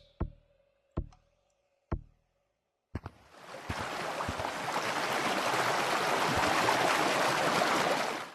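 A few sharp taps in the first two seconds, then a loud, steady rushing hiss that swells in about three seconds in and cuts off suddenly.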